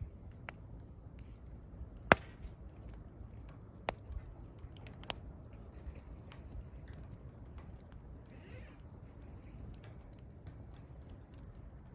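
Wood fire crackling and popping: scattered sharp snaps of burning firewood, the loudest about two seconds in and others near four and five seconds, over a low steady rush.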